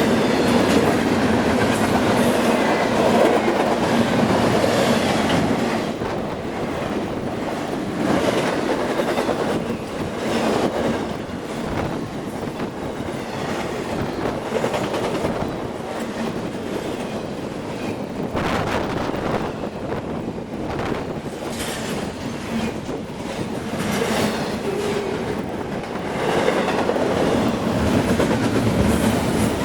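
Long freight train rolling past: its cars' steel wheels rumble and clatter steadily over the rail joints, louder at first and again near the end.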